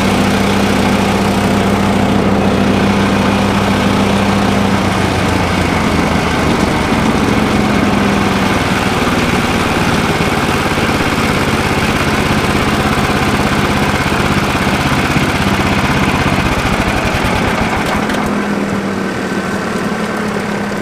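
Yardbeast 2090 chipper/shredder's petrol engine running under load as large pieces of cardboard go through the shredder. About five seconds in its steady pitch drops and wavers as the engine bogs down, too much cardboard at once for the shredder, then it picks back up to a steady speed near the end.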